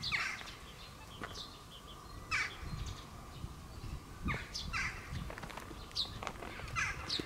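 Birds calling outdoors: about five short calls, each falling in pitch, spaced a second or two apart, with fainter high chirps from other birds.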